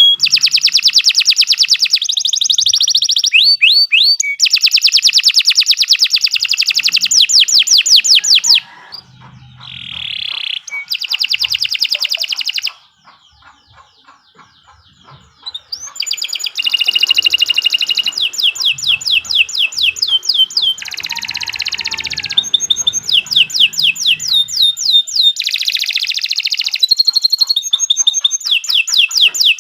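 Domestic canary singing long runs of fast, high trills, with a pause of about three seconds near the middle.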